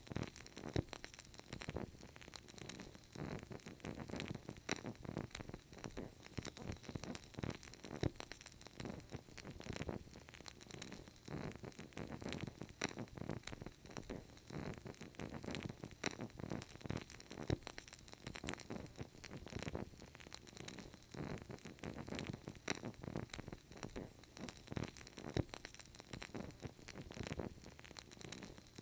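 Burning candle crackling: a continuous run of small, irregular crackles and pops.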